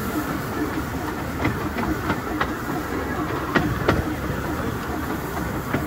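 A moving 15-inch-gauge Bure Valley Railway train heard from on board: a steady rumble of wheels on the track, with irregular sharp clicks and knocks from the rail joints and the coach.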